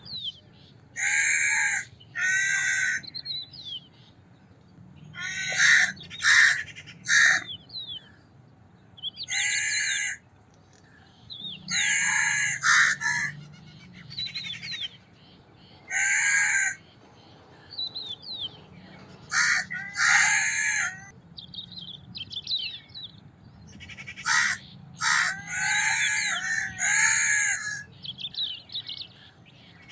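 Crows cawing: repeated harsh caws, singly and in quick runs of two to four, every few seconds. Faint high chirps from small birds come between the caws.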